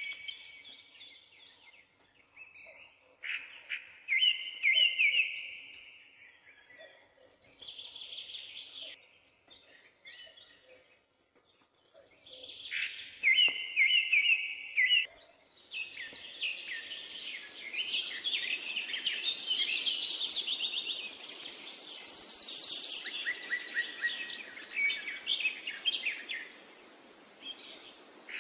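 Songbirds singing in short, repeated chirping phrases with brief gaps between them. From about halfway through the song becomes a denser chorus of several birds over a steady hiss.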